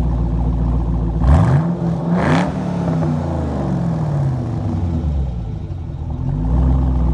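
Rebuilt 6.0-litre LS V8 with a VCM 21 cam, idling with a choppy lope through a regular exhaust with Doug Thorley deletes. About a second in it is blipped twice in quick succession, and the revs then fall slowly back to idle.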